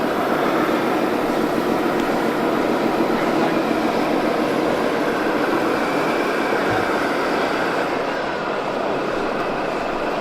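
Steady, even running noise of a vehicle-like kind, slightly quieter near the end.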